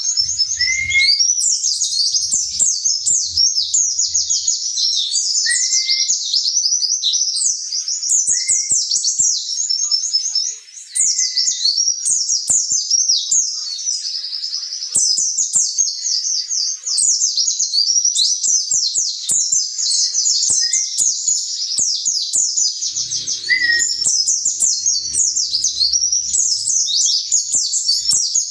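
Pleci (white-eye) song: a fast, unbroken high twittering, with a short lower rising call note every few seconds.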